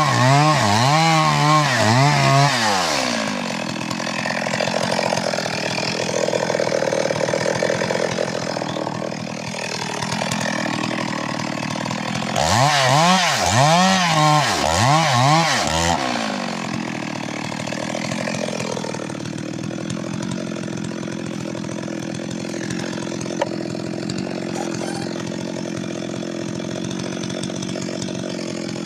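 Stihl MS 382 two-stroke chainsaw revving in quick throttle blips, about two a second, near the start and again about halfway through. In between and afterwards it runs steadily, quieter after the second spell of revving.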